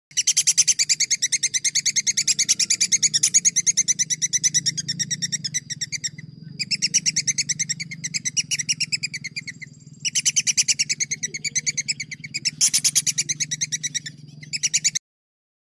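A songbird singing long, rapid trilled rolls of about eight sharp notes a second, in four long runs with short breaks. This is masteran training song for contest songbirds. A low steady hum runs under it, and the song stops shortly before the end.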